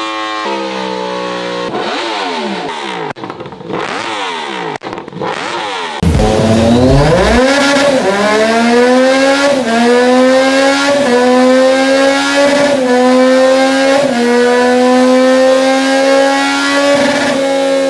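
Yamaha sportbike engines at full throttle on a dyno. In the first part one bike revs up and down with quick throttle blips and brief cuts. About six seconds in, a louder second bike sweeps up sharply, then holds a long wide-open pull whose pitch climbs slowly and steadily.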